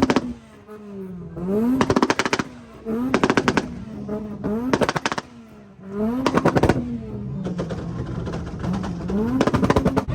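Car engine revved repeatedly into a two-step launch limiter, about six times, each rise in revs breaking into a rapid string of sharp exhaust pops and bangs before dropping back; a steadier idle runs a little after the middle.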